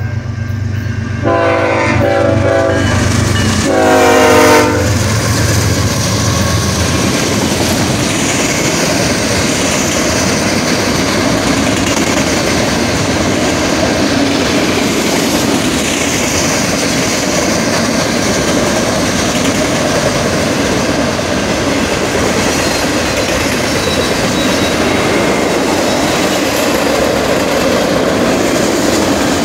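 Freight train passing at a road crossing: the diesel locomotive's horn sounds over its engine for the first few seconds, then a long string of autorack cars rolls by with steady wheel noise and clickety-clack on the rails.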